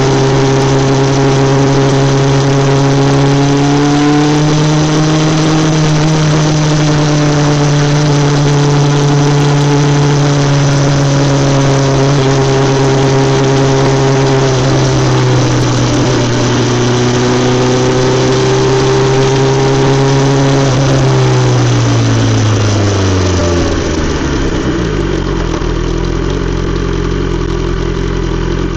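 BMW S 1000 XR inline-four engine through an Akrapovic exhaust, held at steady revs with only slight rises and dips. About three-quarters of the way through the revs fall away, and it settles to a lower idle.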